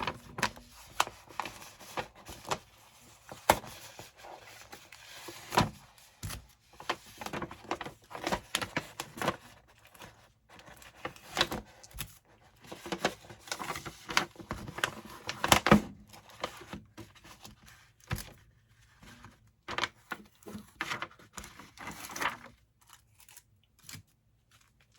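Paper rustling, crinkling and tearing as blowout paper and sublimation transfer paper are handled and peeled off a hot HDF blank. Scattered clicks and knocks from handling are mixed in, and it thins out near the end.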